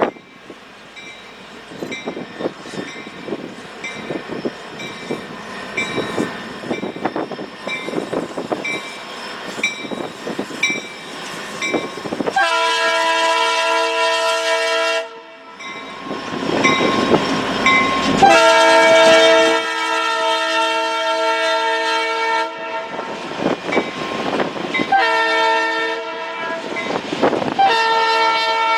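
Railroad wheels clicking steadily over rail joints, then a diesel locomotive's multi-chime air horn sounding the grade-crossing signal: two long blasts, a shorter one, and another long blast starting near the end.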